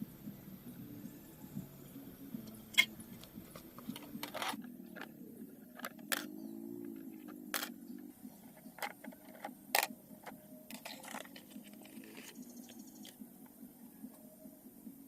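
Irregular sharp clicks and knocks, a dozen or so, the loudest about three seconds in, over a faint low hum.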